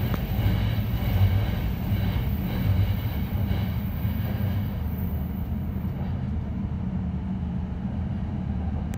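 Running noise of a Joban Line E531-series electric train heard from inside the carriage: a steady low rumble of wheels on the rails, easing slightly in the second half.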